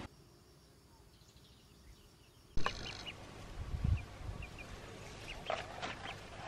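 Very quiet at first, then outdoor background that starts abruptly, with several short, high bird calls and a louder pitched call near the end.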